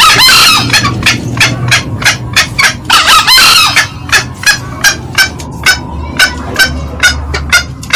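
Green junglefowl calls from a loud lure recording: a rooster's short crow twice, at the start and about three seconds in, over a rapid run of sharp hen cackles, about three a second.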